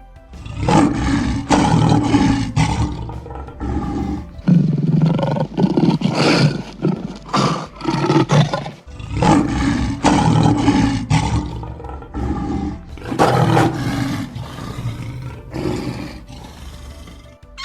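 A large wild animal roaring over and over in long, loud, rough calls, each lasting a second or two, growing fainter near the end.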